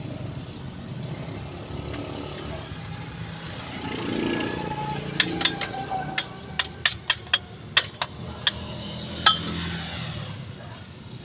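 Metal hand tools clinking against metal: about ten sharp, ringing clinks in irregular succession, starting about five seconds in and lasting some four seconds, over a steady low hum.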